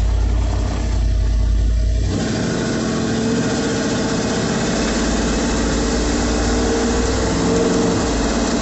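1986 Ford F350 dump truck's 460 V8 running as the truck drives along the road, heard from the cab. A deep rumble for the first two seconds, then a busier engine note.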